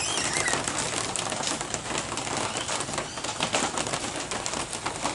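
Steady rain, a continuous hiss with dense pattering, with a few faint bird chirps over it.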